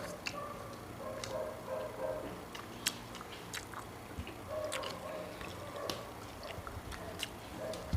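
Eating sounds: chewing and biting into food, with scattered small sharp clicks and smacks.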